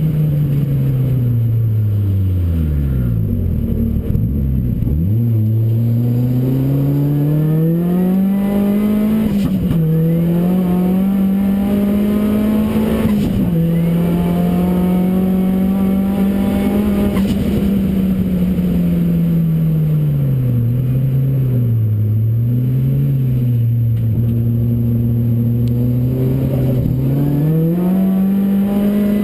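Ford Racing Puma's modified Focus RS engine being driven hard on track: the revs fall steeply about three seconds in, then climb and drop again and again through the gears, running lower for a spell later on before rising once more near the end.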